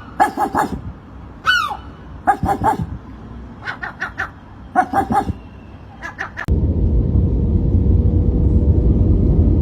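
A gull calling: a drawn-out cry falling in pitch, and several bursts of short, rapid barking calls. About two-thirds of the way through, the sound cuts abruptly to a steady low rumble.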